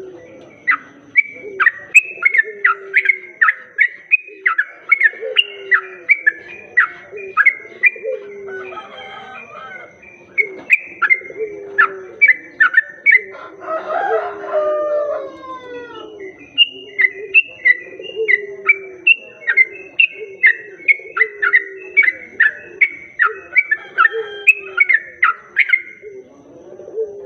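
Yellow-vented bulbul (trucuk) singing: rapid runs of sharp, bubbly chirps, broken by a short pause partway through, over lower repeated calls and a longer call about fourteen seconds in.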